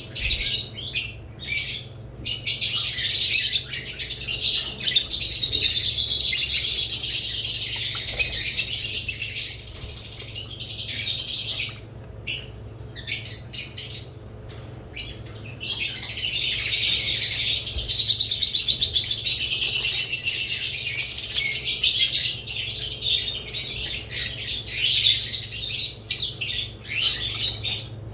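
Pet budgerigars and lovebirds chirping and chattering together, a dense high-pitched twittering that runs nearly continuously for several seconds at a time and thins out to scattered chirps about halfway through and again near the end.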